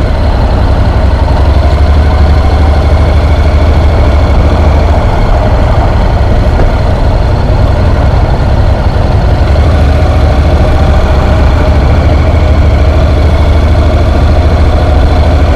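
Honda NC750X motorcycle's parallel-twin engine running steadily while under way, heard as a loud, even, deep rumble.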